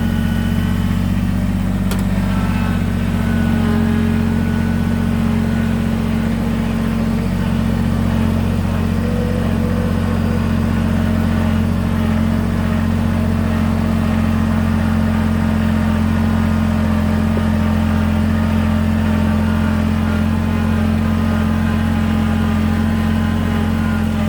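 Kubota BX23S compact tractor's three-cylinder diesel engine running steadily at raised throttle.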